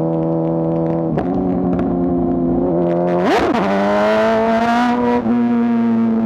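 A 2024 BMW S1000RR's inline-four engine running under the rider. Its pitch steps up slightly about a second in. Just past halfway a quick throttle blip sends the pitch up and back down, and the engine then holds a higher pitch, as on a downshift.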